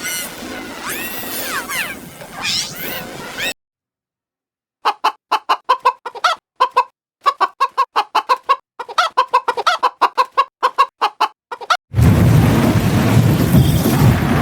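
A chicken clucking in quick repeated bursts for about seven seconds, following a second of dead silence. Before it comes a busy cartoon soundtrack with sliding whistle-like tones, and near the end a loud, dense wash of noise cuts in suddenly.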